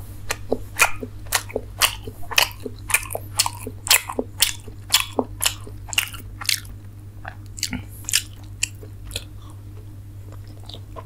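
Close-up mouth sounds of a person chewing a steamed chicken momo: wet smacking clicks about two a second, thinning out in the second half. A steady low hum runs underneath.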